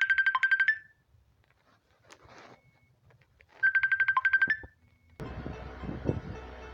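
An electronic trilling alert tone: two short bursts of rapid beeps, about three and a half seconds apart. About five seconds in, a steady rushing noise with a low hum starts.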